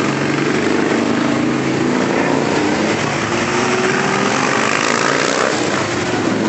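A stream of motorcycles riding past, several engines running at once with overlapping pitches that shift slowly.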